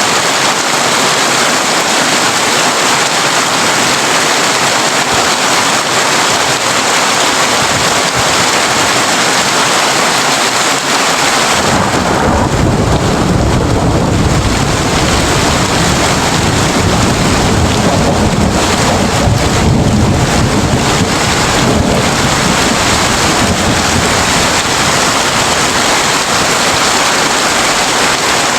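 Heavy rain drumming steadily on a corrugated tin roof. About twelve seconds in, a long low roll of thunder comes in under the rain and goes on rumbling.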